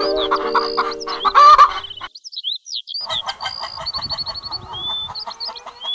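Chickens clucking together with high, gliding chirping calls. Steady organ notes sound under them and stop about two seconds in.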